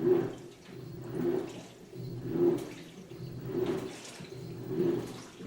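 2006 GE Profile Harmony top-loading washer agitating its rinse water: a rhythmic sloshing surge about every 1.2 seconds.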